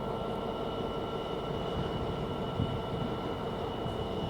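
Class 66 diesel freight locomotive, with its EMD two-stroke V12 engine, running as it pulls away. It gives a steady hum with fixed tones and a low rumble underneath.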